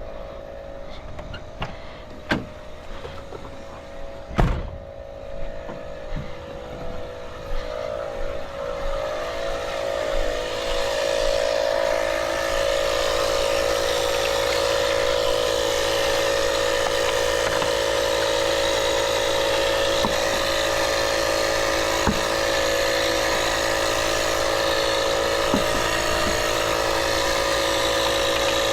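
A few knocks and a sharp thump about four seconds in. From about eight seconds a vehicle engine idling close by grows louder over a few seconds, then holds a steady hum to the end.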